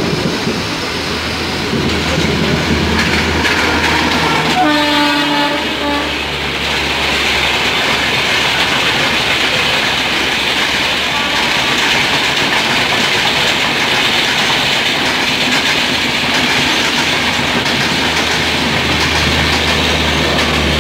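Moving passenger train heard from its open doorway: a steady rumble and clatter of wheels on rails. A train horn sounds briefly about five seconds in.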